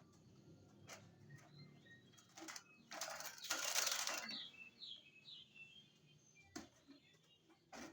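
Small birds chirping in short repeated notes, with a loud flurry of wing flapping lasting about a second, about three seconds in. Sharp clicks now and then.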